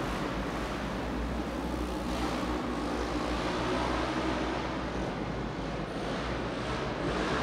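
Engines of Polaris RZR side-by-sides running hard as they race around a dirt speedway track, heard as a steady, continuous engine noise.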